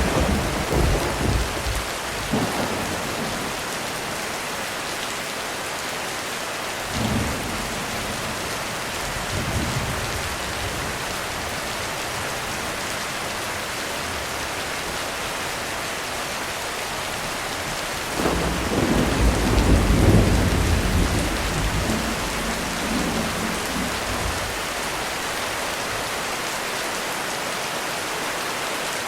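Heavy rain falling steadily through a thunderstorm. Thunder rumbles several times: a fading roll at the start, two small ones in the middle, and the loudest, a long low roll of several seconds, in the second half.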